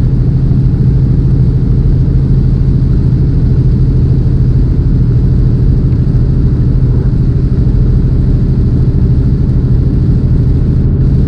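Semi-truck's diesel engine and road noise heard inside the cab while driving: a steady low drone at cruising speed.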